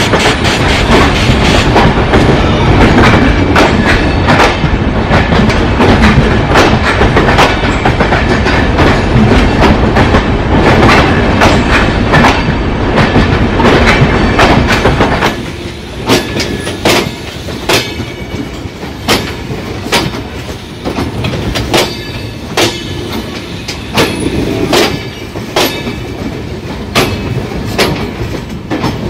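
Passenger train coaches rolling past at speed, wheels clattering over the rail joints. It is loud for the first half, then drops off suddenly about halfway, leaving quieter running with a clickety-clack of wheels over the joints.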